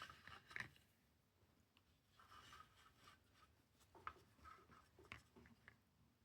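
Near silence, with a few faint scratchy strokes of a paintbrush on watercolor paper.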